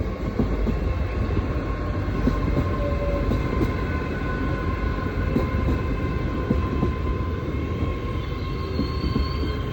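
Class 802 bi-mode train running on its diesel engines: a steady low rumble with a constant whine and light clicks.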